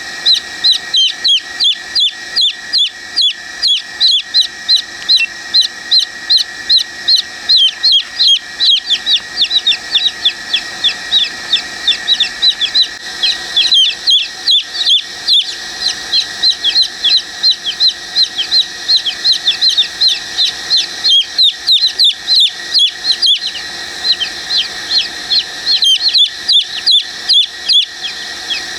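Young chicks peeping loudly and incessantly: a steady stream of short, high, falling peeps, about three a second.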